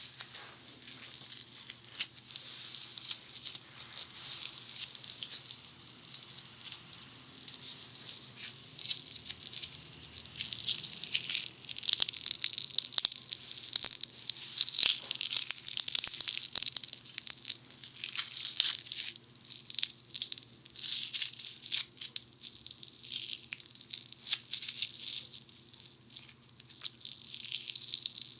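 Funny foam bead clay being squeezed and kneaded at a binaural dummy head's ear microphones: dense fine crackling and crunching, loudest about halfway through.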